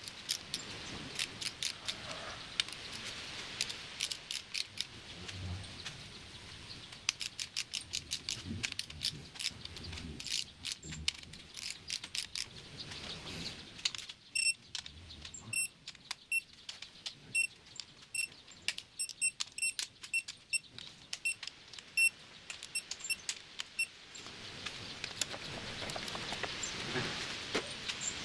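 Hand tools and metal parts clicking and jingling during transmission reassembly: rapid sharp clicks for the first half, then a run of short ringing ticks about halfway through, then a steadier hiss near the end.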